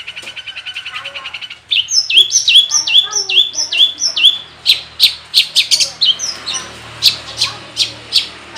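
Long-tailed shrike (cendet) singing a mimicry-filled song. A fast buzzy trill stops about a second and a half in. Next comes a run of about eight repeated whistled notes, each falling sharply. The song ends in a string of sharp, clipped chip notes, two or three a second.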